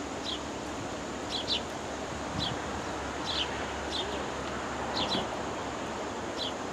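Short, high bird chip notes, each falling slightly in pitch, repeated every half second to a second and often in pairs, over a steady outdoor hiss.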